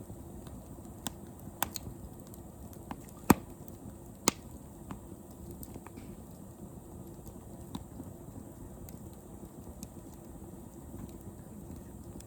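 Wood fire crackling: irregular sharp pops and snaps over a low steady hiss of burning. The loudest pop comes a little over three seconds in, with another about a second later.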